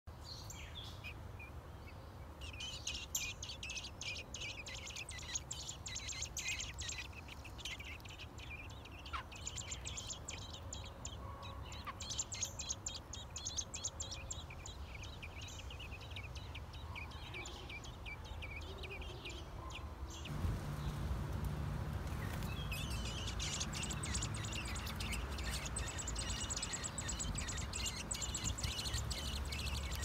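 Birds chirping: rapid runs of short, high chirps in two long spells, with a quieter gap between them. A low background rumble comes in about two-thirds of the way through.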